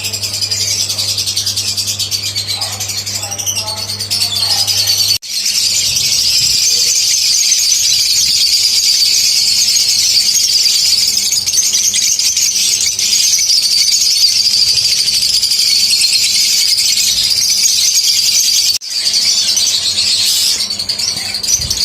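Lovebirds chattering in a dense, continuous stream of high chirps and squeaks, with abrupt breaks about five seconds in and again near the end.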